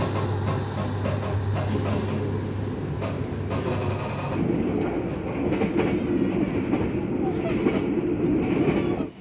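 Passenger train running, heard from inside the coach: a steady rumble and rail noise, with a low drone in the first four seconds that gives way to a different, higher-pitched rumble about four seconds in.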